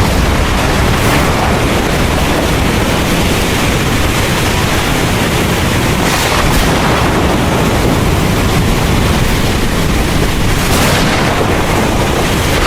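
Heavy rain pouring steadily over a deep, continuous low rumble, with no single sharp thunderclap.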